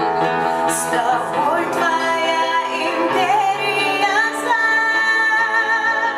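Live band music: a woman sings a wavering melody over instrumental accompaniment, ending on one long held high note with slight vibrato.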